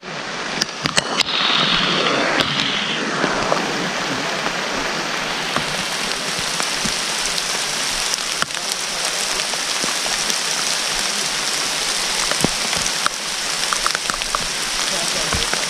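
Heavy rain falling steadily, a constant hiss with a few scattered sharp drip ticks.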